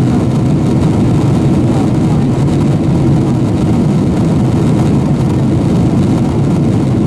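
Steady cabin noise inside a Boeing 767-400 airliner: jet engines and airflow make an even, unbroken low rumble.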